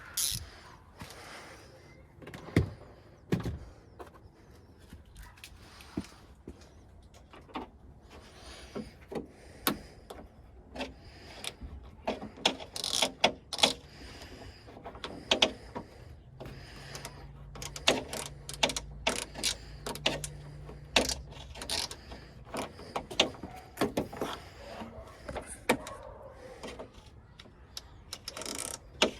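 Hand ratchet and other metal tools working on a truck's door latch inside the door shell: irregular metallic clicks and clinks, with short quick runs of ratchet clicking.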